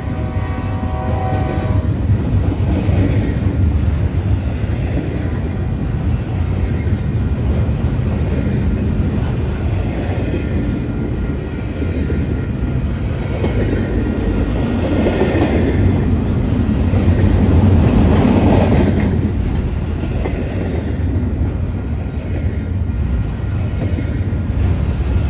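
Union Pacific intermodal freight train passing: the last of a horn blast in the first two seconds, then a steady loud rumble of the passing train on the rails, swelling louder around 15 to 19 seconds in.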